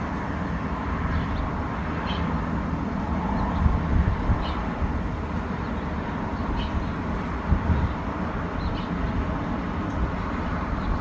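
Steady low outdoor rumble with occasional low thumps, and faint short high chirps every second or two.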